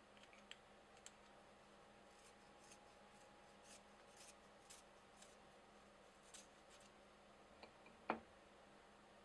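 Faint, short scratchy strokes of coloured pencils on paper, coming in small clusters, with one sharp click near the end.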